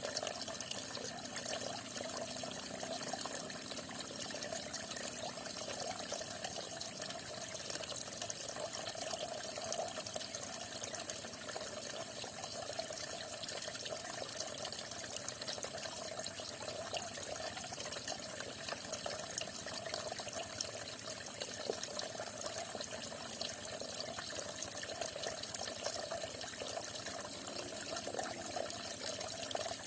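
Falling water splashing and trickling steadily, with no let-up.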